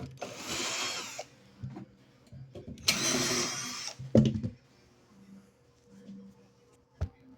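Cordless screwdriver or drill running in two bursts of about a second each, backing out the screws of a power inverter's metal casing, with a few short knocks and clicks after.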